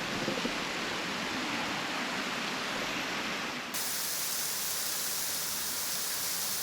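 Waterfall, water falling and splashing in a steady rush. About two-thirds of the way through, the sound abruptly turns brighter and hissier.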